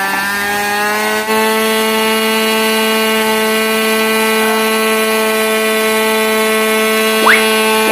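Small fuel engine of a radio-controlled model airplane running at a steady high pitch on the ground while it is being tuned. Its pitch rises slightly in the first second, then holds even. Near the end there is a brief, quick rising chirp.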